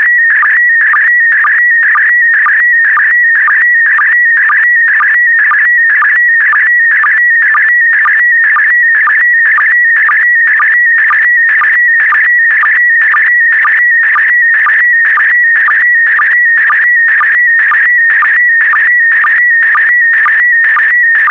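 PD120 slow-scan television (SSTV) signal sending an image line by line: a loud, warbling high tone broken by a short sync pulse about twice a second, in an even rhythm.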